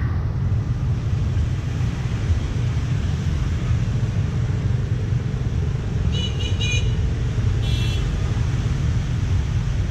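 City street traffic rumbling steadily, with a couple of short high beeps about six and eight seconds in.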